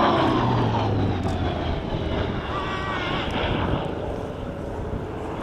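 Hawker Sea Fury's Bristol Centaurus 18-cylinder radial engine and propeller in a flypast. The engine note drops in pitch as it passes in the first second, then settles into a steady drone.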